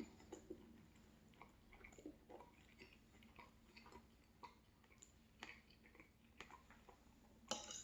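Faint chewing close to the microphone: soft, scattered wet mouth clicks and smacks while food is eaten, with a slightly louder cluster of clicks near the end.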